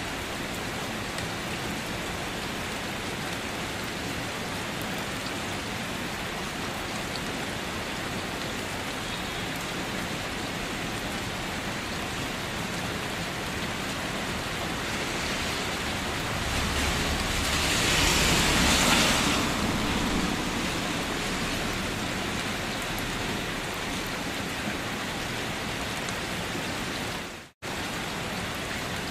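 Steady rain falling, an even hiss of drops. About two-thirds of the way through it swells louder for a few seconds with a low rumble underneath, and near the end the sound cuts out for a split second and comes straight back.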